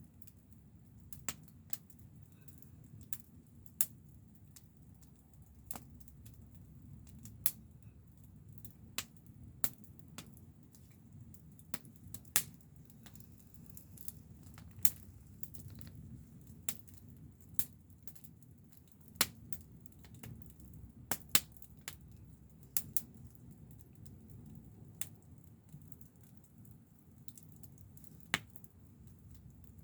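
Wood fire crackling: irregular sharp pops, some louder than others, over a low steady rumble.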